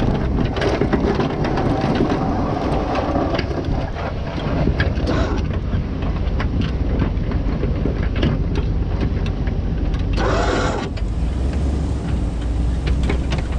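A vehicle engine running steadily, with many sharp clicks and rattles over it and a brief higher-pitched sound about ten seconds in.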